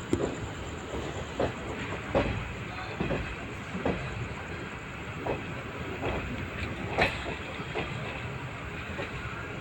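An LHB passenger coach running on the track: a steady rumble with irregular clicks and knocks from the wheels over the rails. The sharpest knock comes about seven seconds in.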